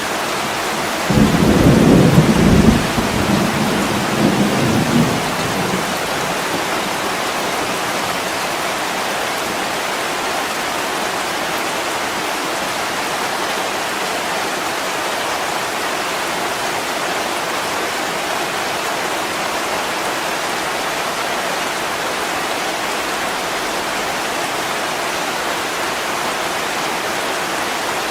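Heavy rain pouring steadily on a window, with a clap of thunder about a second in that rumbles on for around four seconds before the rain alone is left.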